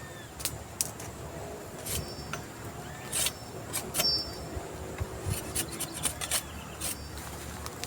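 Irregular sharp clicks and rubbing noises, as of wood or camping gear being handled.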